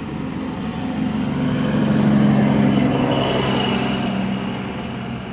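An engine running steadily, growing louder to a peak about two seconds in and then easing off.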